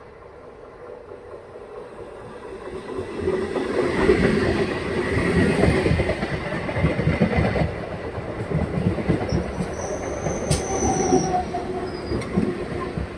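Eastern Railway EMU local train approaching, growing steadily louder over the first four seconds, then its coaches running close past with a heavy rumble and a rapid clatter of wheels over rail joints. A brief high squeal comes about ten seconds in.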